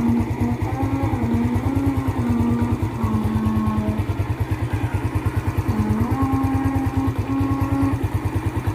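Yamaha Jupiter Z motorcycle's small single-cylinder four-stroke engine idling steadily, with an even low pulse.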